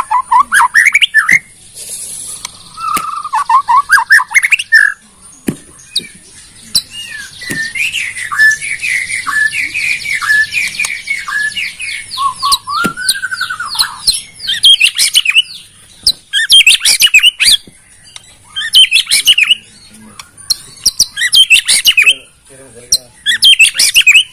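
White-rumped shama (murai batu) singing: varied whistled phrases, then a long run of quick repeated notes over a fine trill, then loud, sharp call bursts every second or two.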